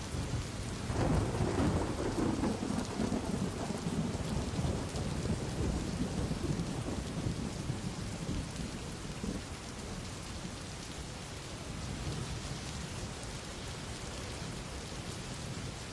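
Steady rain falling, with a low roll of thunder that starts about a second in and rumbles away over the next several seconds.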